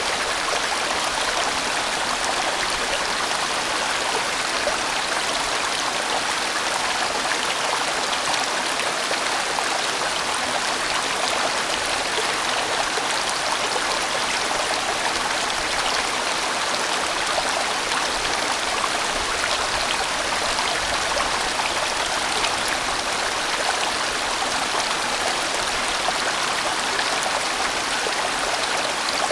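A large mountain stream rushing steadily over rocks, a full, even sound of flowing water with no breaks.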